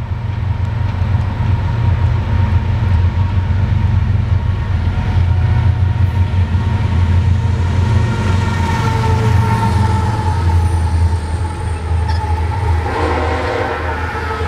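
Union Pacific freight train with six diesel-electric locomotives on the head end, led by UP 5318, passing close by at about 38 mph: a loud, steady, deep engine drone. Near the end, as the first freight cars follow the locomotives, a higher ringing tone joins in.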